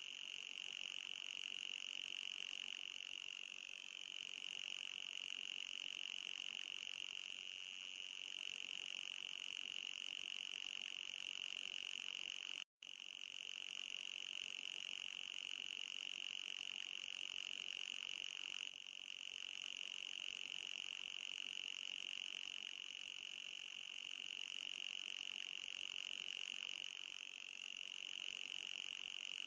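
Mosquito-repellent sound effect: a steady, high-pitched electronic whine with a fainter, higher overtone, wavering slightly in pitch. It cuts out for an instant a little under halfway through, then resumes.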